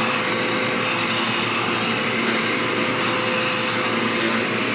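Dirt Devil Power Max bagless upright vacuum cleaner running steadily at full suction, a constant rushing hiss with a steady motor whine.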